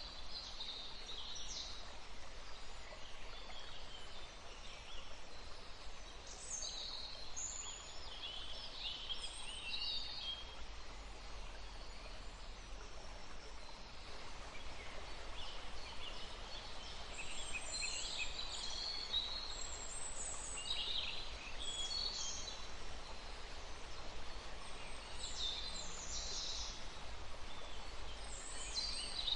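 A small woodland stream flowing steadily, with songbirds chirping in scattered bursts of short, high calls over it. The birds fall quiet for a few seconds about midway, then return more often toward the end.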